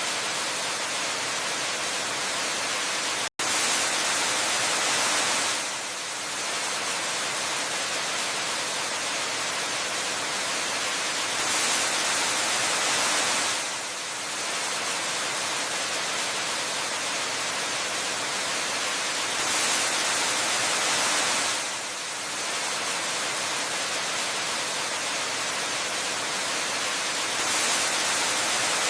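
Steady white-noise rush of a waterfall, swelling a little louder for about two seconds roughly every eight seconds. There is a split-second dropout about three seconds in.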